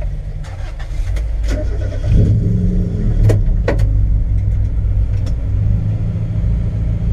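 Mazda Miata's four-cylinder engine idling, heard from inside the cabin, rising briefly in pitch and level about two seconds in as the throttle is blipped. A few sharp clicks sound over it in the first half.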